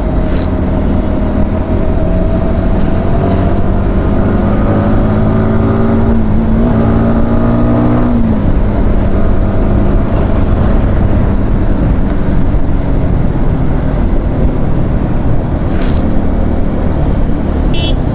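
Yamaha R15 V4 motorcycle riding at speed, with heavy wind rush over the microphone. The engine note climbs slowly, then falls away about eight seconds in.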